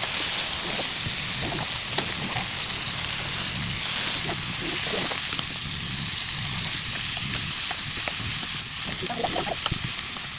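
Chicken in coconut milk sizzling in a pot as the sauce cooks down, a steady hiss with faint scattered low sounds underneath.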